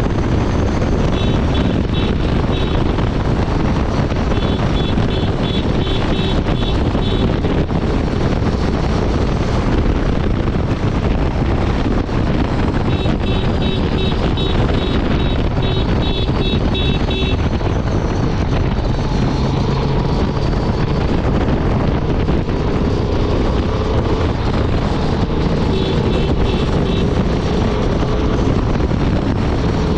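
Honda Transalp 750's 755 cc parallel-twin engine running steadily at highway speed, under heavy wind rush on the microphone. A faint high pulsing beep comes and goes a few times.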